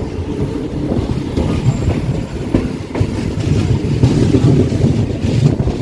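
Rumble and wheel clatter of a moving passenger train coach, heard from on board.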